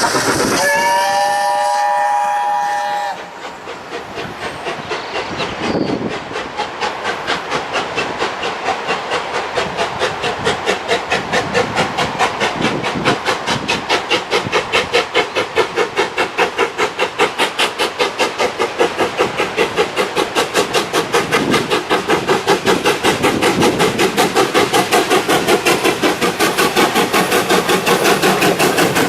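Steam locomotive whistle blowing for about two and a half seconds, then the locomotive pulls away, its exhaust beats starting slow and steadily quickening.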